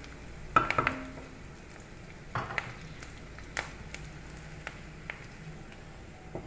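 A metal spoon knocking and scraping against a pan or cookware as dry-roasted spices are stirred and handled. The sharp clinks come in a loud cluster about half a second in, a few more around the middle, and lighter ticks after that, over a faint steady hum.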